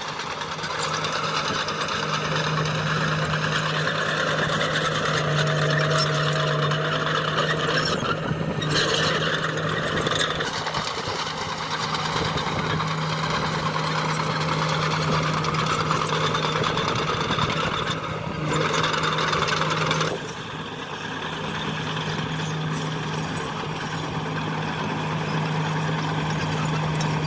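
Diesel engine of heavy earth-moving machinery running steadily: a constant low engine drone under a rougher mechanical noise that swells and eases a few times as the machine works.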